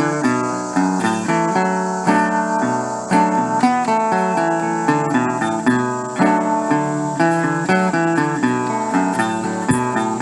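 Background music: an acoustic guitar picking and strumming plucked notes in a steady rhythm, with no singing.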